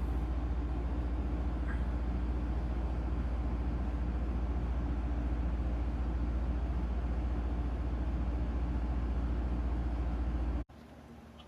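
A steady low rumble that cuts off abruptly near the end, leaving quieter room tone.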